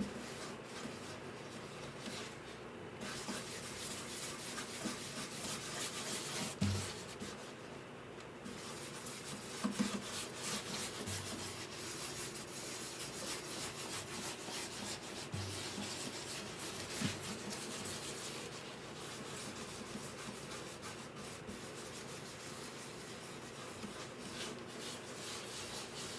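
Continuous hand-worked abrasive rubbing on the wood of a guitar under repair, with a few light knocks.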